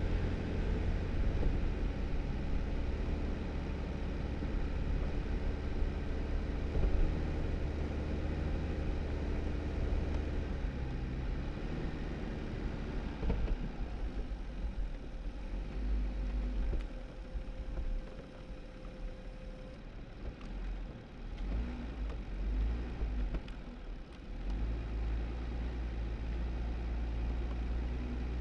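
2018 Jeep Wrangler driving on a snowy dirt road: a steady engine hum over the crunch and hiss of the tyres. About halfway through the engine note drops and turns quieter and uneven for around ten seconds, then steadies again near the end.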